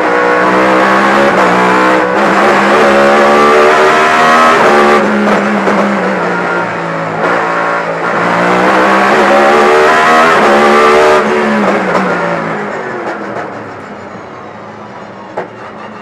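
In-car sound of a BMW M3 E92 race car's V8 driven hard, its note climbing and dropping back several times as it goes through the gears. Over the last few seconds the engine note falls away and grows quieter.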